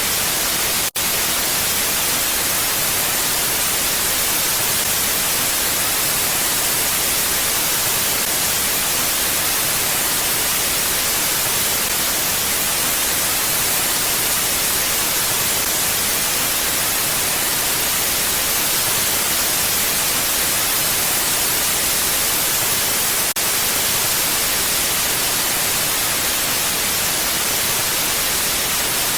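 Steady ambient wind noise: an even, unchanging hiss weighted toward the high end, with no gusts. It briefly drops out twice, about a second in and again about 23 seconds in.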